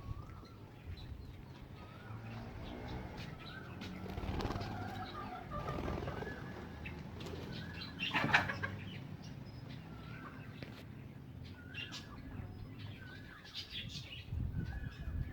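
Penned birds calling, with short rising chirps and low coos. A loud burst of wing flapping comes about eight seconds in.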